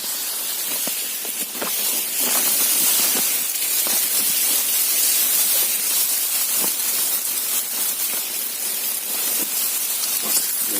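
Steady high-pitched hiss of outdoor background noise, with scattered light rustles and knocks.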